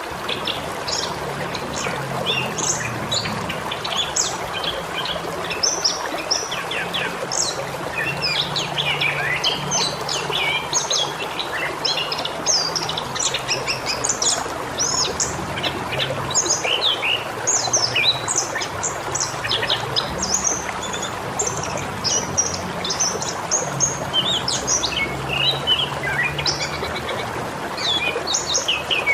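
Many small birds chirping at once, a dense run of short, quick, overlapping calls, over a steady background hiss.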